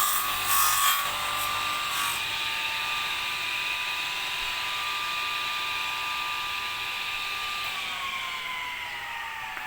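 Electric circular saw, mounted as a table saw, finishing a cut through wood about two seconds in and then running free with a steady high whine. Near the end it is switched off and winds down, its whine falling in pitch.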